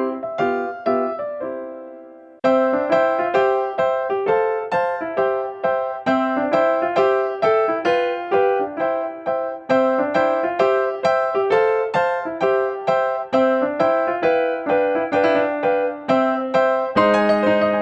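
Background piano music: a gentle melody of single struck notes. A chord fades away and the playing pauses briefly before resuming about two and a half seconds in.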